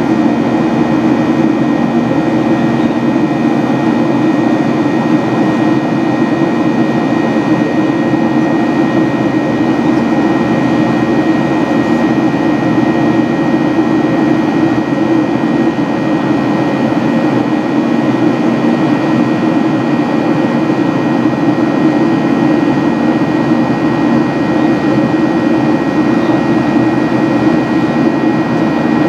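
Boeing 737-800's CFM56-7B jet engines at climb power heard inside the cabin: a steady, even rush of noise with a constant high whine above it.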